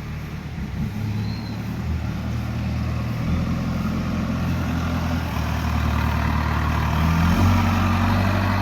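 A heavy engine running steadily and slowly getting louder, its note shifting a few times.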